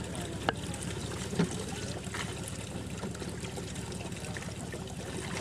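Water trickling and dribbling steadily, with two sharp knocks about half a second and a second and a half in.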